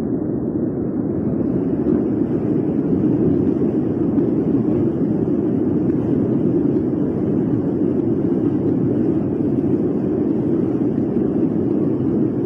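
Floodwater mixed with mud rushing through a street, a steady low rushing noise.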